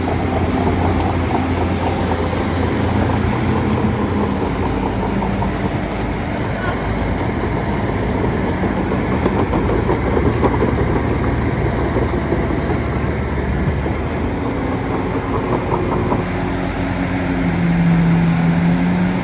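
Heavy machinery engine running continuously, its hum shifting in pitch several times and growing louder and steadier near the end.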